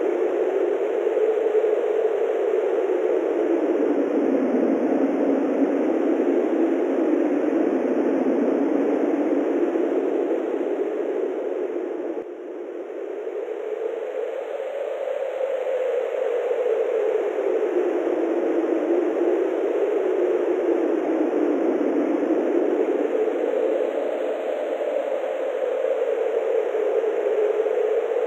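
Wind blowing steadily, a rushing noise whose pitch slowly rises and falls in long swells, easing briefly about twelve seconds in.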